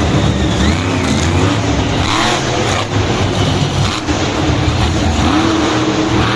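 Monster truck engine running loudly and revving, its pitch rising and falling.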